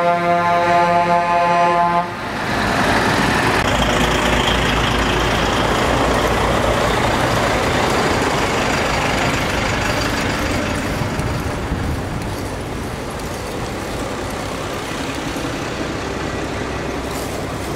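A truck air horn sounds one steady blast, then cuts off about two seconds in. Heavy trucks then drive past with a continuous rumble of diesel engines and tyres, easing off gradually in the second half.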